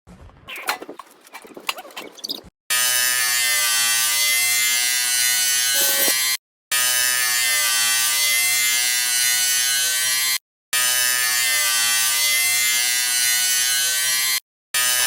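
Handheld electric power tool running steadily with a loud buzzing hum, in three long runs broken by sudden gaps; a few knocks and clicks come before it starts.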